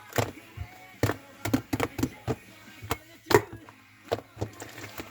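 Irregular sharp knocks and clicks, about a dozen, the loudest a little past three seconds in.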